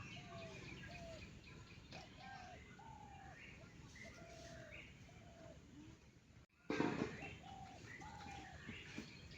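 Birds calling: a run of short, arched call notes about twice a second, with scattered higher chirps. A brief break and a louder burst come about two-thirds of the way through.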